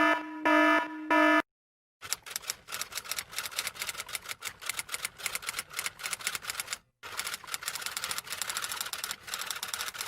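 A few short, evenly spaced electronic beeps, then about a second of quiet, then rapid typing clatter: fast keystroke clicks that run on with one short break about two-thirds of the way through.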